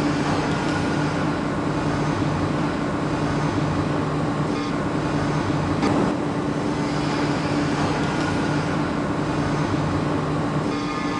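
Industrial machinery running with a steady hum and a constant low drone, with a single click about six seconds in.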